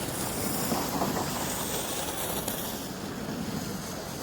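Steady scraping hiss of sliding over packed snow on a ski slope, mixed with wind rushing over the microphone.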